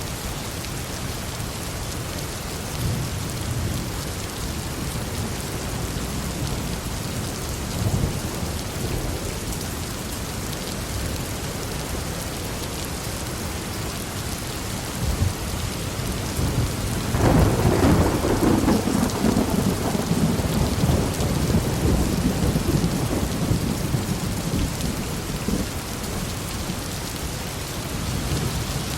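Heavy rain falling steadily, with low rumbles of thunder. About two-thirds of the way through, a louder peal of thunder breaks and rolls on, fading over several seconds.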